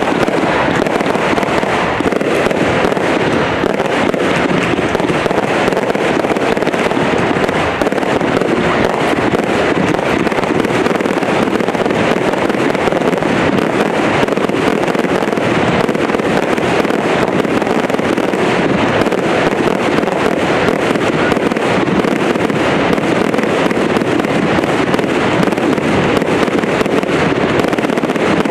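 Fireworks display: a dense, continuous crackling of many small bursts, with no pauses.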